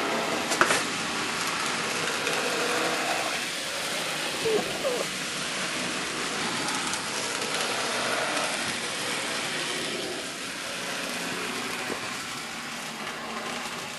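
N scale model train running on the layout: a steady whir of a small motor and wheels rolling on the track, with a sharp click about half a second in.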